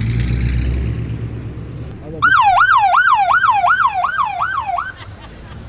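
Police car siren in a fast yelp, its pitch rising and falling about three times a second for under three seconds, then cutting off. Before it, a car engine's low rumble.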